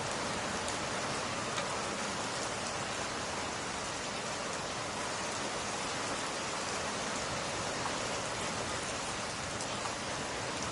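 Steady rain, an even hiss, with a few faint sharp ticks scattered through it.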